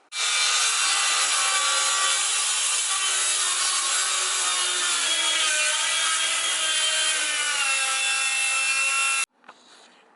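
Power saw cutting through a wooden roof rafter, running continuously with its motor pitch sagging slightly under load, then stopping abruptly about nine seconds in.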